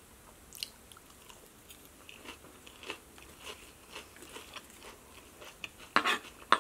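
Close-up chewing of a mouthful of crisp lettuce salad: soft, repeated wet crunches. About six seconds in, a couple of much louder sharp clicks.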